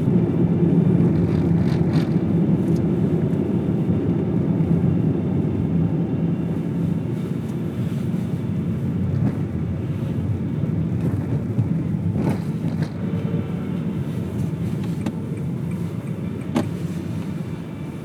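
Car driving along a road, heard from inside the vehicle: a steady rumble of engine and tyre noise with a few faint ticks, easing off slightly toward the end.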